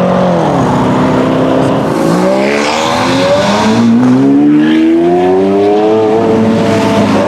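Sports car engine revving. The pitch drops sharply just after the start as the revs fall, holds low for a moment, then climbs steadily from about two seconds in before levelling off near the end.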